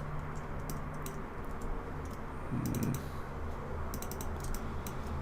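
Computer keyboard and mouse clicking in short irregular bursts as shortcuts are pressed, over a steady low hum.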